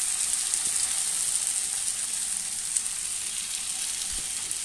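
Marinated chicken pieces sizzling in hot melted butter in a nonstick frying pan: a steady crackling hiss as the pieces go into the fat.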